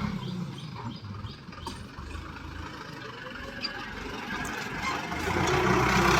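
John Deere 5050 D tractor's diesel engine running, growing louder near the end.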